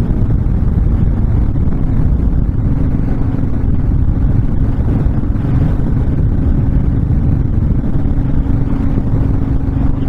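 Honda VTX1300 V-twin cruiser motorcycle running at a steady cruising speed, its engine holding one even pitch, with heavy wind rumble over the microphone.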